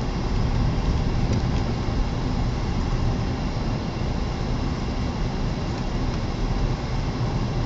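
A car driving slowly, heard from inside the cabin: a steady low rumble of engine and tyres, with wind noise from a blizzard gusting against the car.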